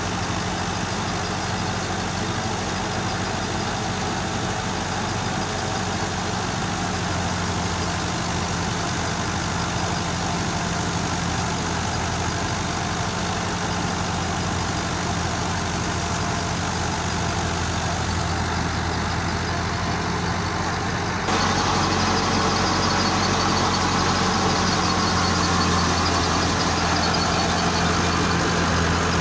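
Tractor engine running steadily. About twenty seconds in it abruptly gets louder and brighter, then holds steady at the new level.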